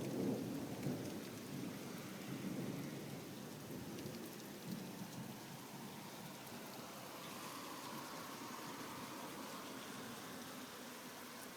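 Heavy rain falling, with a low roll of thunder in the first few seconds that dies away into the steady sound of the rain.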